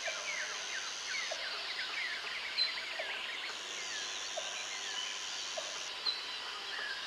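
Jungle ambience: many birds chirping and calling over one another in quick sweeping notes, with a short low call repeating about every second and a half. A high, steady insect drone sounds for a while, cuts out, and comes back about halfway through.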